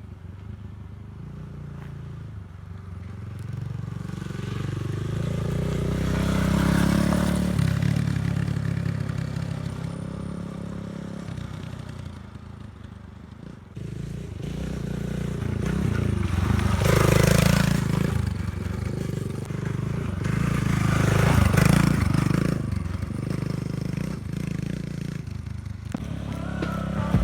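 Kawasaki KLX110L pit bike's single-cylinder four-stroke engine running as it is ridden, revving up and down. It swells and fades several times as the bike comes near and goes away, loudest a little past halfway.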